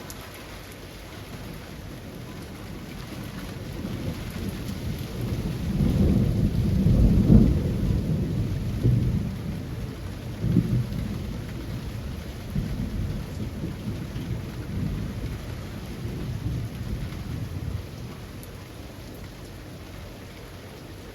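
Steady rain falling on trees, with a long roll of thunder that builds a few seconds in, peaks near the middle with several separate surges, and dies away a few seconds before the end.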